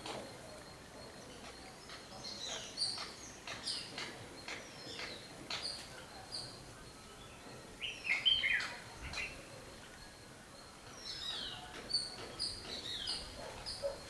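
Birds chirping: short, high calls, many sliding down in pitch, coming in clusters, with the loudest burst a little past halfway.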